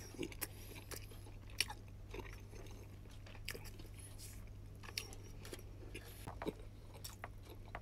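Faint chewing of takoyaki, with scattered small mouth clicks, over a steady low hum.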